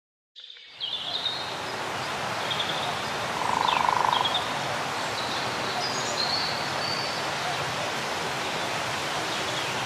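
Outdoor nature ambience: a steady hiss with scattered short, high bird chirps, and a brief buzz about three and a half seconds in.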